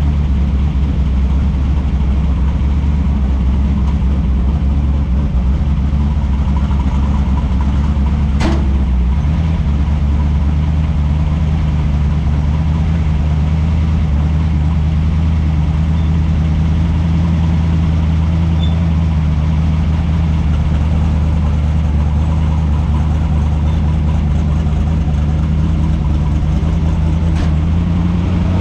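A car engine idling steadily, with a sharp click about eight seconds in; the engine note starts to rise right at the end.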